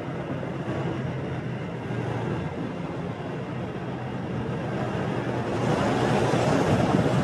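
Motorbike riding along a city street: a low, steady engine hum under road and wind rush. About five and a half seconds in the rush grows louder.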